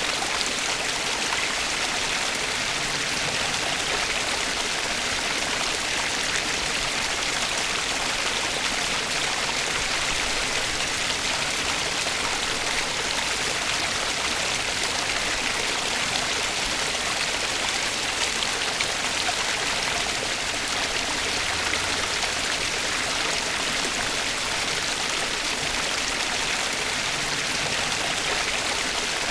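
Flowing stream water running steadily, an even rushing hiss with no breaks.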